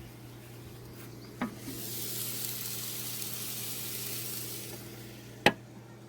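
Food sizzling on a hot portable grill. The sizzle starts just after a click about a second and a half in and dies down near the end, where one sharp click sounds, all over a steady low hum.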